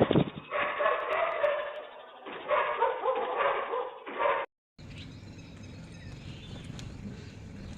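Repeated loud animal calls for about four seconds, then an abrupt cut to steady low background noise with a few faint high chirps.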